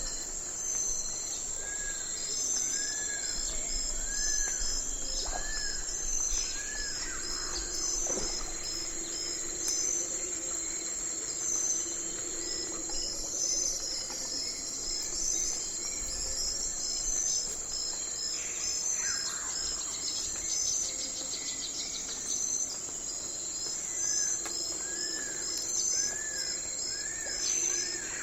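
Night forest ambience: insects drone steadily and crickets chirp in a quick regular rhythm. A bird gives a run of about five short rising-and-falling calls a few seconds in, and another run near the end.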